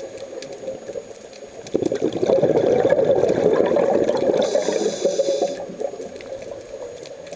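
Scuba diver's regulator: a long burst of exhaled bubbles gurgling and rumbling, starting suddenly a couple of seconds in and tailing off, with a short high hiss of the regulator near the end of it.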